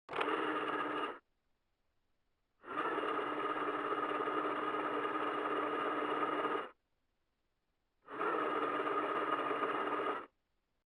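Electric shaver running, played back pitched down three octaves so it comes out as a low, steady motor drone. It sounds three times: briefly at the start, then for about four seconds, then for about two seconds, with quiet gaps between.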